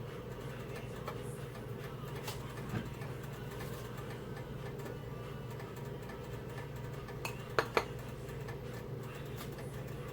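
A metal spoon knocking lightly against a cooking pot of hot milk curdled with vinegar: a soft knock about three seconds in and two sharp clicks in quick succession about seven and a half seconds in, over a steady low hum.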